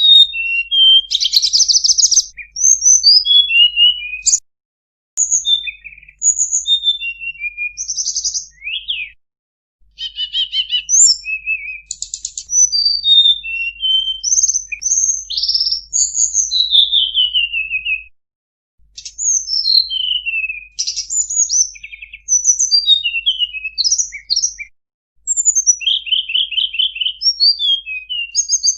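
A tledekan gunung songbird singing a fast, varied song of high, quick whistled notes, many of them sliding downward, in long phrases broken by short pauses.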